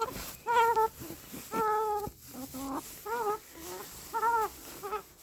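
Chicken calling: a string of about six short, pitched calls that rise and fall, with one longer, steadier call about a second and a half in.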